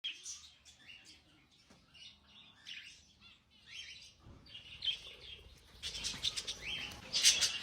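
Small birds in a home aviary chirping and twittering, many short high calls overlapping, growing busier and louder about six seconds in.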